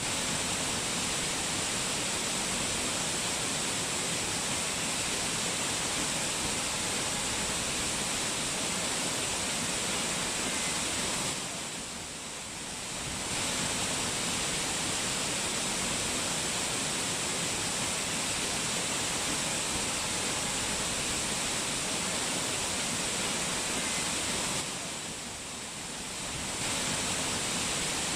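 Rushing mountain water flowing hard, a steady full hiss that dips briefly about halfway through and again near the end.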